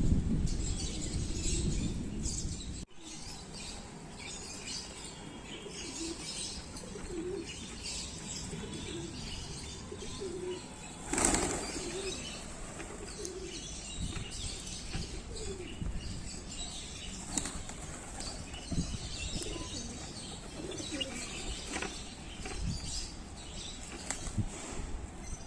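Pigeons flapping their wings and cooing, with one louder rush of wingbeats about eleven seconds in.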